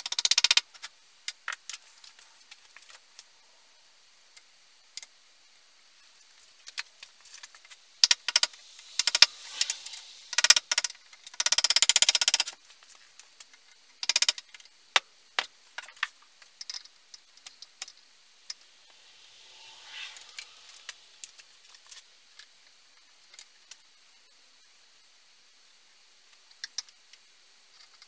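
Small metal parts and hand tools being handled: irregular clinks and rattles, with a busier stretch of clattering and scraping about a third of the way in.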